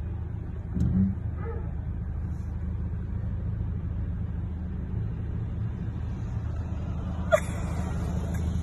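Car engine running at low speed, a steady low rumble heard from inside the car's cabin. A brief louder low sound comes about a second in, and a single sharp click near the end.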